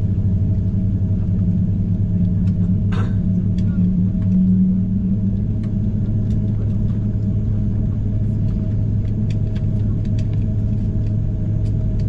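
Steady low drone inside the cabin of an Airbus A330-300 on the ground before takeoff, with a faint steady whine over it. A brief hiss comes about three seconds in, and there are a few light clicks.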